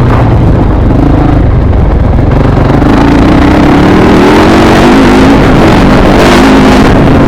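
Dirt bike engine running at speed, its pitch rising and falling with the throttle. Heavy wind rumble on the microphone underneath.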